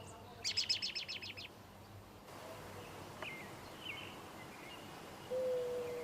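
Birdsong: a rapid trill of about ten high notes in the first second and a half, then a few faint scattered chirps. About five seconds in, a steady low whistle-like tone begins.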